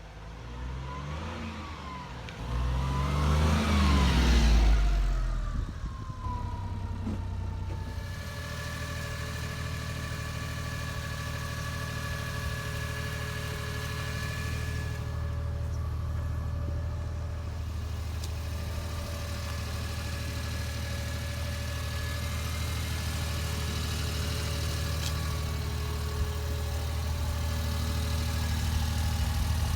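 1991 Suzuki Every van's small three-cylinder engine revved twice, pitch climbing and dropping back, then settling into a steady idle about eight seconds in.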